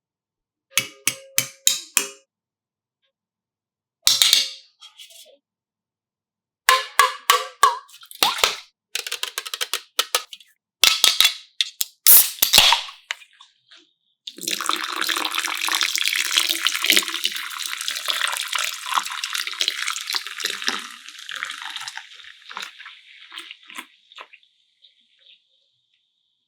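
Several sharp clicks and clinks in quick groups, then liquid pouring and fizzing for about eight seconds before fading away.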